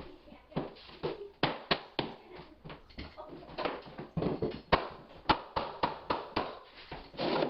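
Rubber mallet knocking hardwood floor boards tight into place: a rapid, irregular run of sharp knocks, some harder than others.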